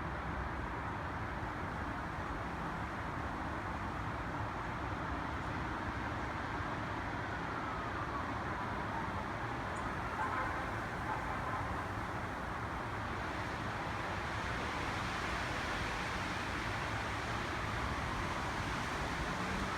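Steady rushing of wind through trees, a little stronger and brighter in the last third.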